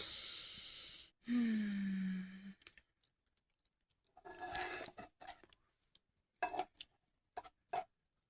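A person sighing: a long breath out, then a short voiced sigh that falls in pitch, then another breath and a few soft mouth clicks near the end.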